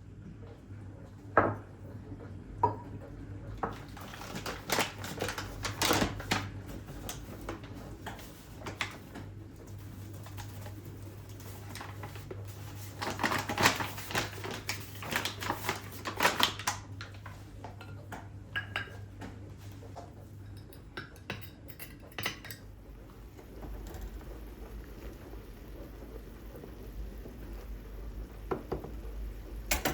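Dishes and cutlery clinking and clattering as they are handled, in irregular bursts that are busiest around the middle. A low steady hum runs underneath and stops about two-thirds of the way through.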